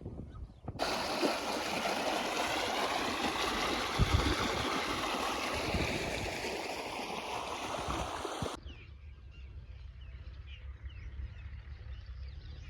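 A steady rushing, gurgling noise like flowing water starts suddenly and cuts off abruptly after about eight seconds. It gives way to a quieter low, steady mechanical hum.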